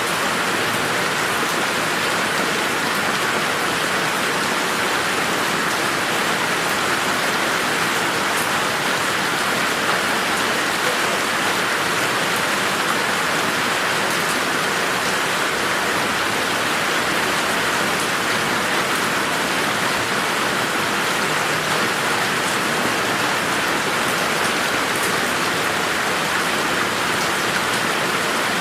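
Steady rain falling, an even hiss of drops with a few faint sharper drop ticks.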